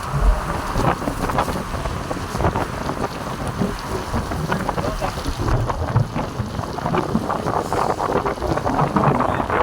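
Heavy rain falling steadily, with wind gusting on the microphone.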